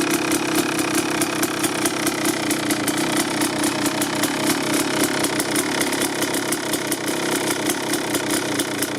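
2003 Kawasaki KX250's single-cylinder two-stroke engine idling steadily through an FMF Gnarly expansion pipe and shorty silencer, warming up after a cold start, with a rapid, slightly uneven popping exhaust note.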